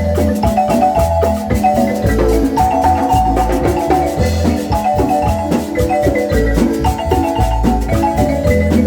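Marimba ensemble playing a lively piece: fast repeated melody notes over a pulsing bass line.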